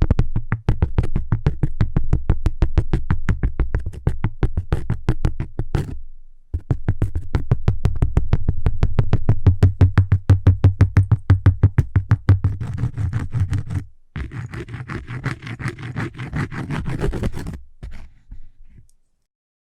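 Rapid tapping on cork, many taps a second, with a short pause about six seconds in. In the latter part it turns into denser, scratchier strokes, then a few last taps and it stops just before the end.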